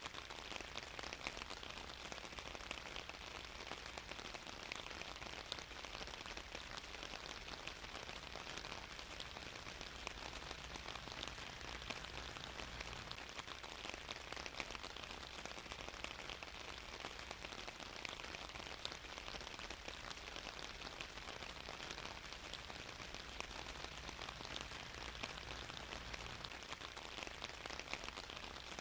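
Steady rain falling on a surface, a continuous hiss with many small drop patters.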